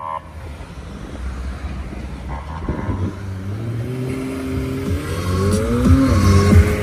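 A car engine accelerating, its pitch rising steadily through the second half, over the noise of street traffic that grows louder.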